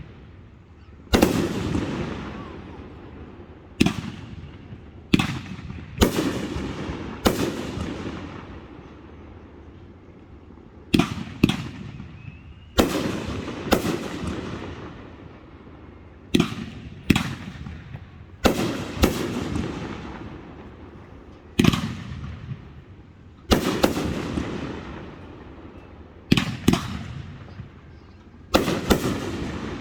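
Fireworks display: sharp bangs every second or two, often in close pairs, each followed by a rolling echo that fades out.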